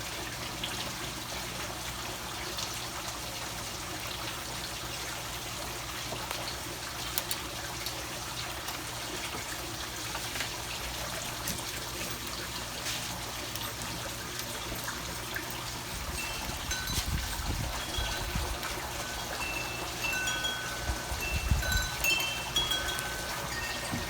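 Wind chimes ringing in short, clear high tones from about two-thirds of the way through, over a steady hiss with scattered small clicks. Brief low rumbles come twice near the end.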